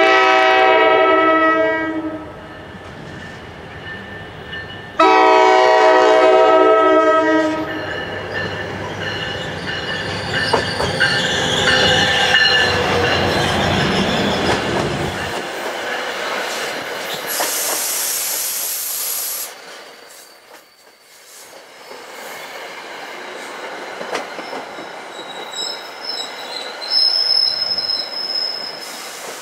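NJ Transit passenger train sounding its horn in two long blasts as it approaches, then running close by with rumbling wheels on the rails. A brief hiss comes about two-thirds of the way through, and a high wheel squeal near the end.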